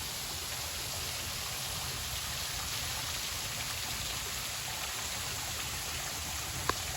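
Steady hiss of running or falling water, with a low rumble underneath and one faint tick near the end.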